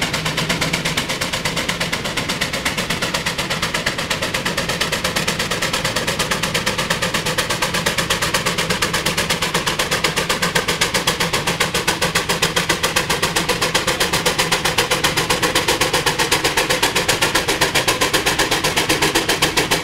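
Steam tractor's exhaust chuffing in a rapid, even beat as it works under the load of the pull, growing a little louder in the second half.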